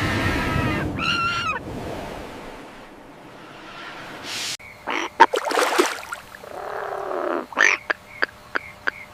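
A run of different animal calls cut one after another, ending in a quick regular series of short calls, about three a second.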